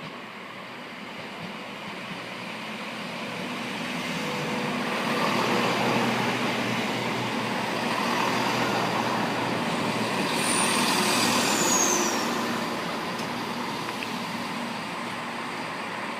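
A train running along the platform, its rumble building, staying loud through the middle and easing off near the end, with a brief high squeal falling in pitch about ten seconds in.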